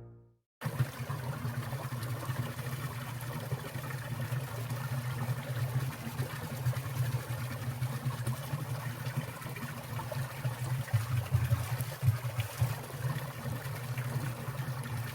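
Mountain valley stream trickling and splashing steadily over rocks, starting about half a second in as a piano tune fades out.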